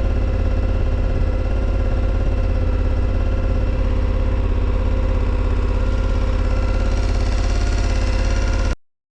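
KTM 1290 motorcycle's V-twin engine running steadily, with a heavy low rumble. It cuts off suddenly near the end.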